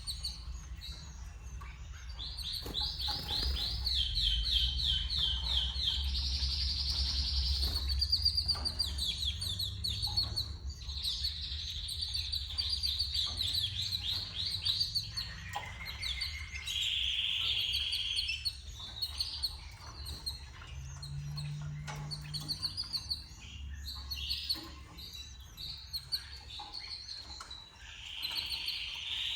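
Domestic canary singing in long runs of rapid, repeated trilled notes, broken by shorter chirps and a few buzzier held phrases. A steady low hum sits underneath.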